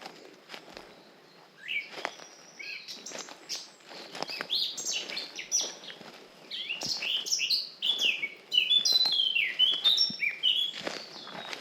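Forest songbirds singing quick, rapidly changing chirping phrases, growing busier and louder through the middle and later part, with soft footsteps on a forest path beneath them.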